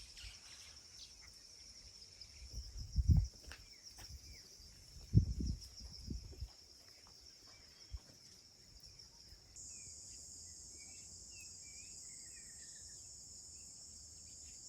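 Steady high-pitched chorus of insects trilling, with a higher band joining about two-thirds of the way through. Short bird chirps come in shortly after that, and there are two low thumps about three and five seconds in.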